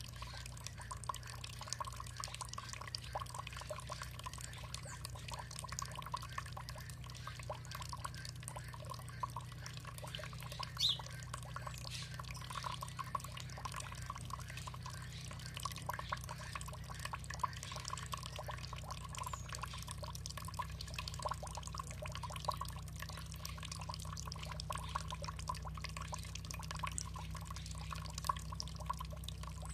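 Water dripping and trickling: a dense patter of small drips and splashes over a steady low hum, with one brief high note about a third of the way in.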